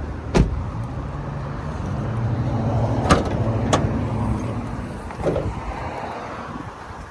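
Dodge Ram 1500's 5.7 L Hemi V8 idling steadily, with a few sharp clicks and clunks (the hood being unlatched and lifted), one less than a second in and two more about halfway.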